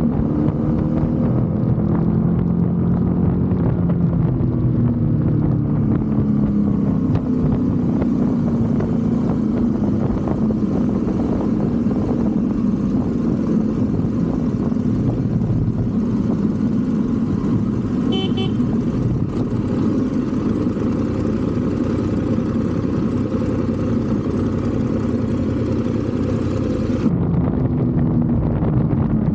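BMW F850 GS motorcycle's parallel-twin engine running while riding: its pitch rises and falls through the first few seconds, then holds steady under a rush of wind noise, which cuts off suddenly near the end as the engine pitch starts changing again.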